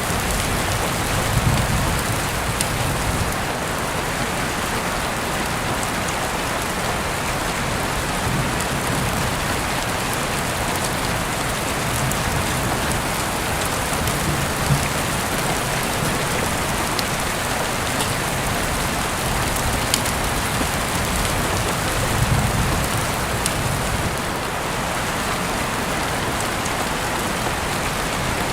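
Heavy rain falling steadily, a dense even hiss with scattered sharper drop ticks, as heard through an open window.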